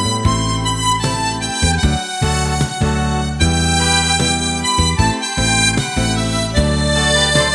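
Harmonica in G playing a song melody in sustained notes over a backing accompaniment with a low bass line.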